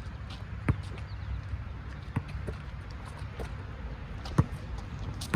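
Basketball bouncing on the court: a few separate, irregularly spaced thuds over a steady low background rumble.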